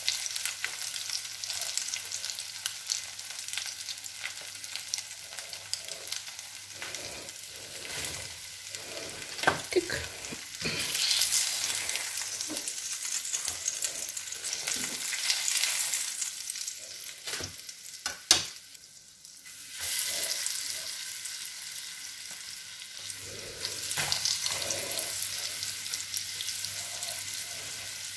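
Syrniki sizzling in hot oil in a ceramic-coated frying pan, with clicks and scrapes from a spatula. The sizzling swells louder a few times as fresh, floured pancakes are laid into the oil, and there is one sharp click past the middle.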